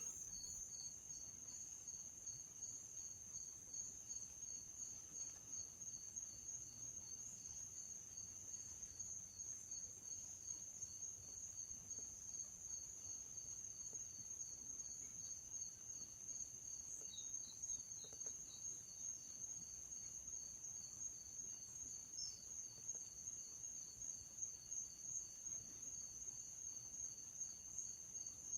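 Faint, steady chorus of insects trilling: one continuous high-pitched trill, with a second slightly lower trill pulsing under it.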